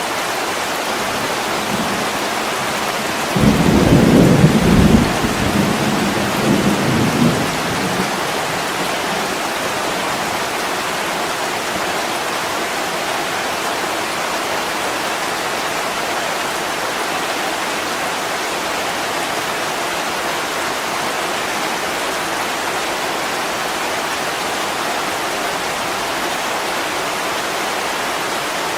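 Steady heavy rain, with a rumble of thunder about three seconds in that rolls on in a few swells for around four seconds before the rain alone carries on.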